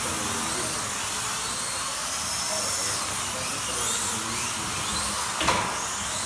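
Slot cars' small electric motors whining as they race round the track, the pitch rising and falling as they accelerate and brake. A sharp knock comes about five and a half seconds in.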